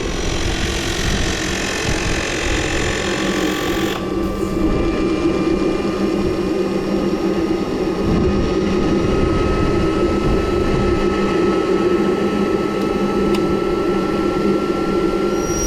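A radio-controlled jet's small turbine engine running steadily on the ground, with a thin whine that climbs slowly in pitch through most of the sound.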